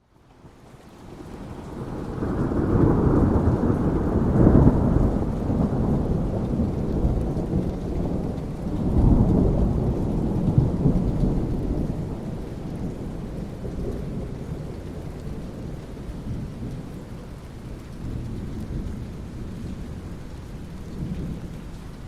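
Thunder rolling over steady rain. The rumble builds over about two seconds, peaks around four seconds in, swells again near nine seconds and then slowly dies away, leaving the rain.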